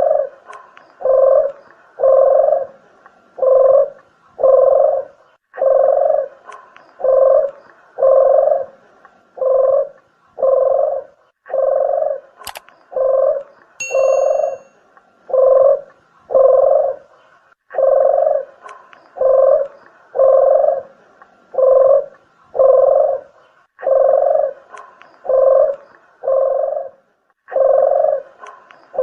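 Red turtle dove (puter geni) cooing over and over, a low note about once a second in runs of five or six with short breaks between them, as used for a bird-trapping lure call. A sharp click comes about twelve seconds in, then a short high chirp.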